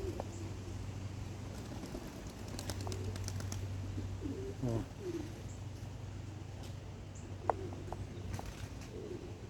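Young domestic pigeons cooing softly now and then, with a few scattered light clicks over a steady low hum.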